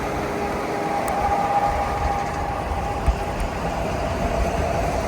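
Steady rumble of a large passing vehicle, with a faint steady whine above it.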